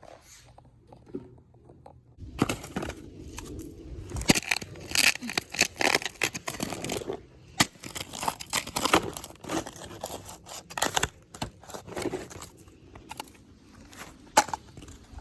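Crunching and scraping of snow in quick, irregular strokes, starting about two seconds in.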